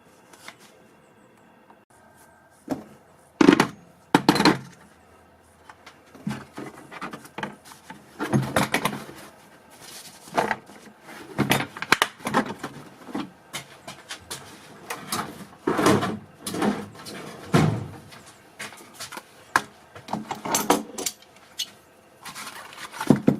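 Hand tools clinking, knocking and rattling irregularly as they are handled, with two loud knocks about three and a half and four seconds in.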